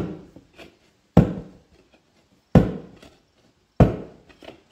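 Four heavy hammer blows, about one every 1.3 seconds, each followed by a lighter knock or two, driving a stuck tire and ring off a Firestone RH-5 split-rim truck wheel.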